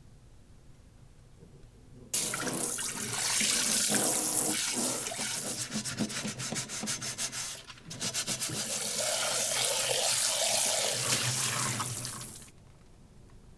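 Kitchen tap running water into a sink, turned on suddenly about two seconds in, with a brief break near the middle, and shut off near the end.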